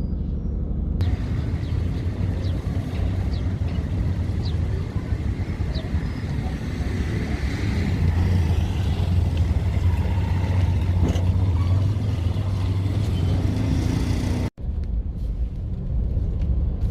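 Engines running at a steady low rumble: a continuous drone with a noisy haze above it. The sound drops out for an instant near the end.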